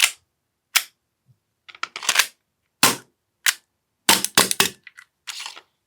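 AAP-01 gas blowback airsoft pistol being test-fired: a string of sharp cracks, single shots about a second apart, then several in quick succession near the end, with the pistol firing properly.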